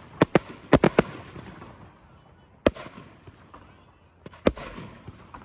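Display fireworks going off in sharp bangs: a quick run of about five in the first second, then single bangs nearly three seconds and four and a half seconds in.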